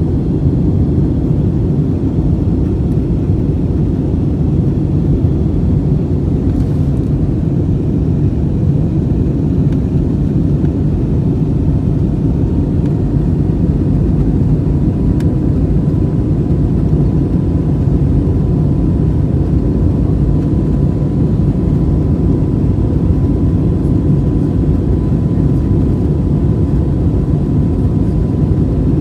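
Airbus A320 passenger cabin noise in flight: a steady low rumble of engines and rushing air. A faint steady whine joins it partway through.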